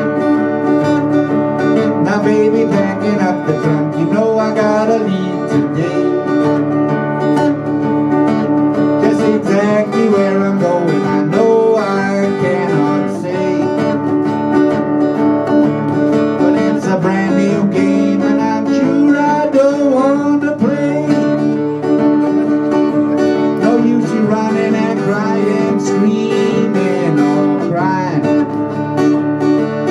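Acoustic guitars playing an instrumental break in a country-blues song, strummed chords under a lead line with bending notes.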